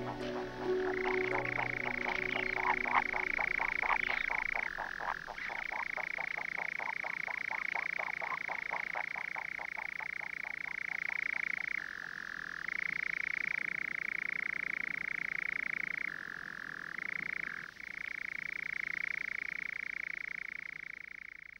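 A long, unbroken trilling animal call that switches back and forth between a higher and a lower pitch several times. Music fades out under it in the first few seconds.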